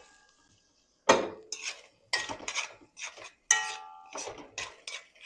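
Kitchen utensils clinking against pots and dishes: a quick irregular series of sharp, ringing metallic strikes beginning about a second in.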